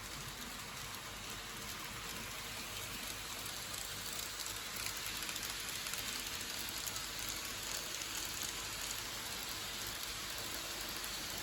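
N gauge model train running along the track: a steady fine clatter and hiss of small wheels on rail, getting louder over the first few seconds as it comes nearer.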